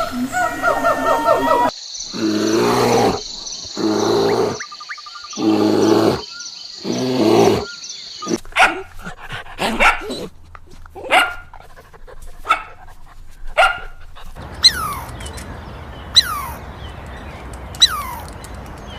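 A dog barking: four long drawn-out barks, then a run of short sharp barks about once a second. Near the end come three quick falling chirps from another animal.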